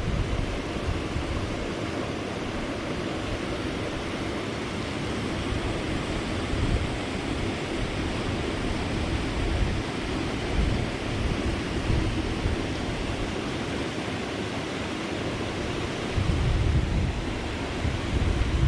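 Steady rush of a small mountain creek running over rapids, with wind buffeting the microphone in low gusts, strongest near the end.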